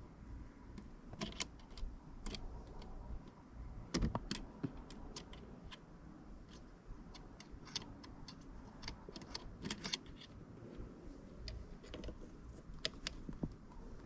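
Irregular light clicks and small clattering from parts being handled by hand, with a louder knock about four seconds in.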